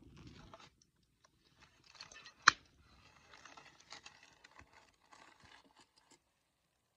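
Wood campfire crackling with scattered small pops and one sharp, much louder pop about two and a half seconds in; the crackle stops abruptly a little after six seconds.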